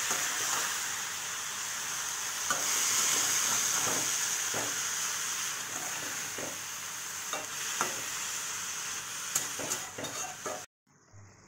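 Oyster mushrooms and dry fish sizzling in oil in a metal kadai, with a spatula scraping and clicking against the pan as they are stirred. The sizzle cuts off suddenly near the end.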